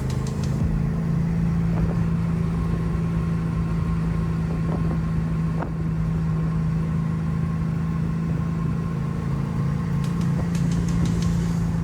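1969 Chevrolet Camaro SS's V8 engine running at a steady, unchanging engine speed: a steady drone.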